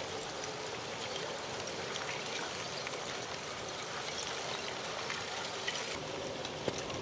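Steady rushing hiss with faint scattered crackles and ticks, as of an active lava flow, under a faint steady hum.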